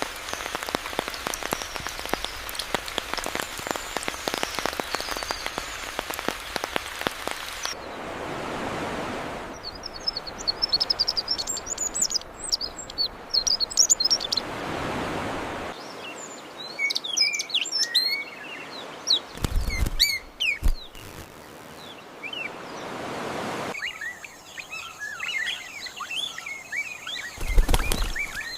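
Birds chirping and calling in short high notes, in several sections that change abruptly. The first section is a dense crackling patter, and a few low thumps come about two-thirds of the way in and again near the end.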